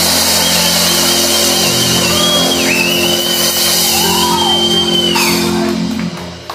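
Live reggae band letting a final chord ring out as the song ends, with a high, wavering held note over the top. The music dies away about six seconds in.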